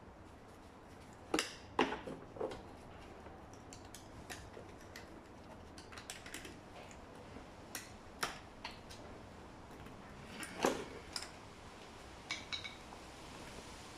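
Scattered clicks and knocks of metal tools against small engine parts as the piston is worked off a scooter's connecting rod. The loudest knocks come about a second and a half in, just before two seconds and near eleven seconds, with a short metallic ring near the end.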